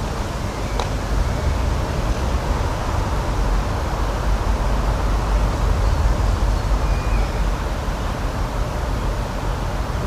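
Outdoor nature ambience: a steady low rumble with hiss, with a brief click a little under a second in and a faint short high tone about seven seconds in.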